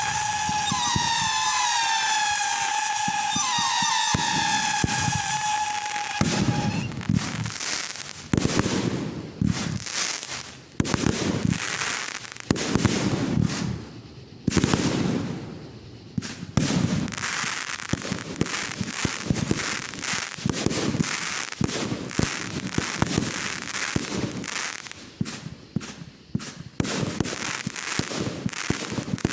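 Consumer fireworks going off: for about the first six seconds, shrill whistling shells glide up in pitch over and over. Then comes a long run of rapid bangs and crackling bursts, some with lower booming tails.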